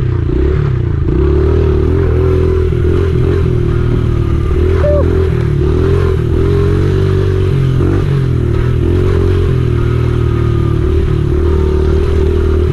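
Honda XR70R pit bike's small four-stroke single-cylinder engine running as the bike is ridden, its pitch rising and falling with the throttle.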